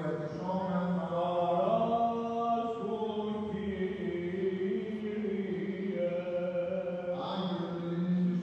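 Slow chanting voices: a melody moving over a steady, held low drone note.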